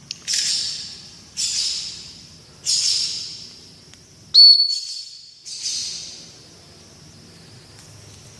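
A single high, steady whistle about four seconds in, held for about a second: a recall whistle for a free-flying lovebird. Around it come several short rushes of hissing noise that start sharply and fade away.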